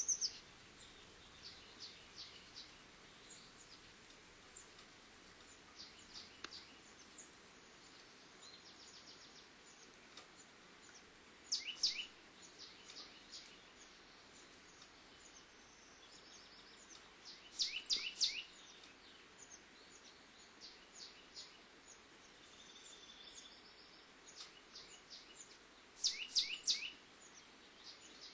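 Small bird chirping in quick high, falling notes, bunched in short loud clusters about 12, 18 and 26 seconds in with fainter single chirps between, over a faint steady hiss.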